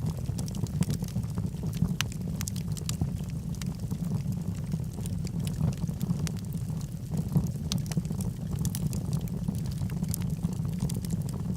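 Wood logs burning in a fireplace: a steady low roar of the flames with frequent irregular crackles and pops.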